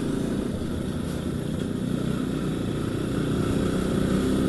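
Motorcycle engine running while riding, with road and wind noise; the engine grows a little louder near the end.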